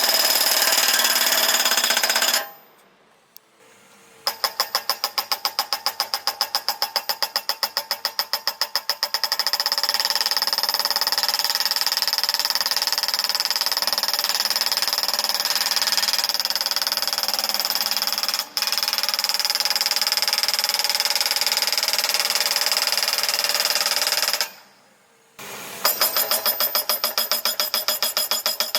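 Hydraulic breaker-style skid steer post driver (Eterra PDX-750) hammering a post: a fast, even train of metallic blows with a steady high ring. The hammering stops about two seconds in and again near the end, each time resuming after a short pause.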